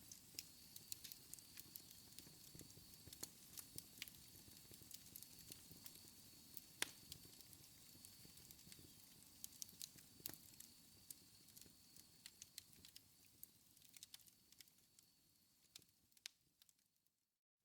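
Wood fire burning in a fireplace: irregular sharp crackles and pops over a low, steady rumble of flames. It dies away to near silence just before the end.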